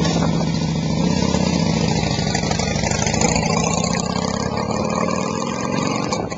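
Harley-Davidson Ultra Classic V-twin running steadily through a D&D Fat Cat 2-into-1 exhaust just after starting, loud and even.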